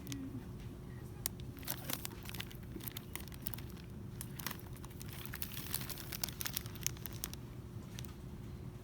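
Irregular crinkling and clicking of plastic packaging being handled, over a steady low background hum.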